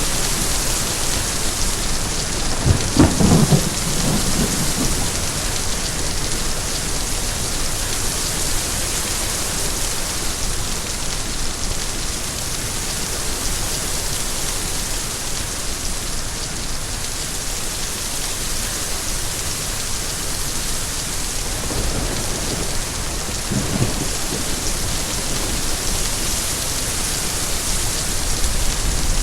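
Steady rain falling on a surface, with a low rumble of thunder about three seconds in and another, fainter rumble about two-thirds of the way through.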